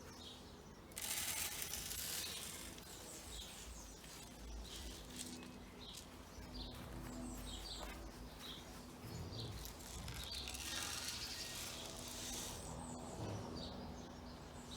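Garden birds chirping in short, scattered calls, with a loud rustling hiss about a second in and another near the end.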